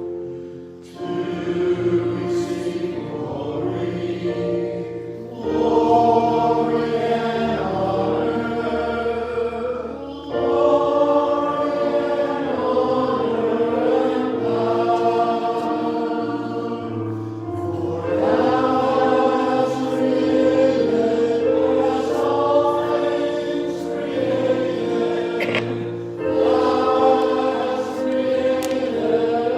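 Choir singing a slow hymn in held chords that change every few seconds.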